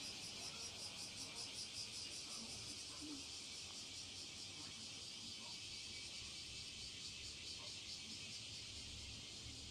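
Small hot-water Stirling engine with a graphite-epoxy piston in an aluminium cylinder, running: a faint high-pitched hiss that pulses a few times a second.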